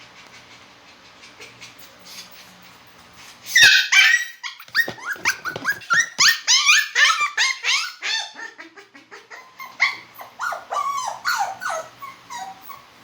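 Poodle crying in a rapid run of short, high-pitched yelps and whines that slide in pitch. It starts suddenly about three and a half seconds in and tails off near the end.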